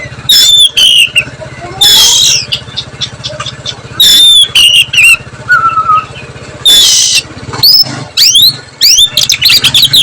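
Oriental magpie-robin (kacer) singing: loud whistled phrases of falling and rising sliding notes, broken up by rapid harsh chattering bursts and quick upward sweeps near the end.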